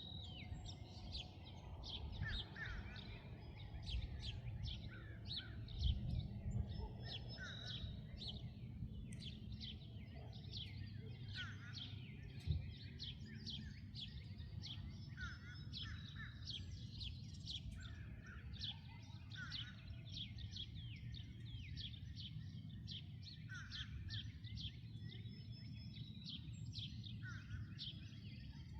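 A chorus of many small birds chirping and calling without a break, short high notes overlapping one another, with lower chirps every couple of seconds. Beneath it a steady low rumble swells around six seconds in, and a single short knock comes about twelve seconds in.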